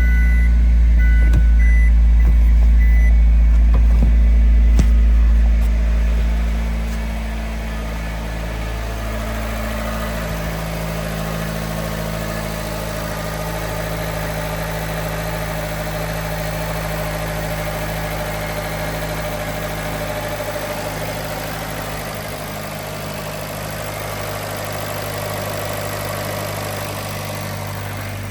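2017 Fiat 124 Spider's 1.4 L turbocharged four-cylinder engine running just after start-up, louder for about the first six seconds, then settling into a steady idle. Dashboard warning chimes beep for the first few seconds.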